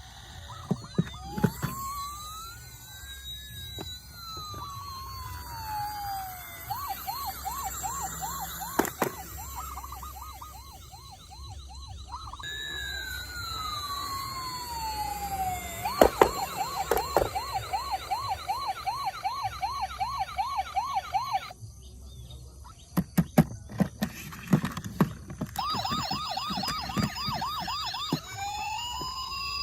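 Toy emergency vehicles' electronic sirens: a slow wail rising and falling in pitch alternates with a fast yelp of about four cycles a second, with sharp clicks and knocks scattered between.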